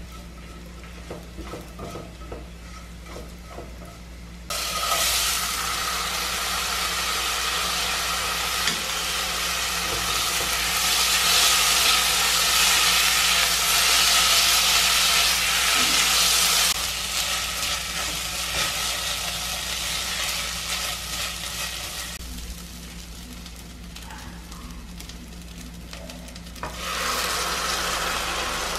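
Food frying in a hot pan, an even sizzling hiss that starts suddenly about four seconds in, stays strong for about twelve seconds, dies down, and rises again near the end, over a steady low hum.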